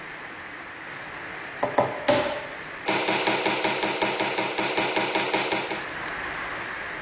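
Two single sharp knocks, then a quick even run of ringing strikes, about five a second for nearly three seconds, over a steady background noise.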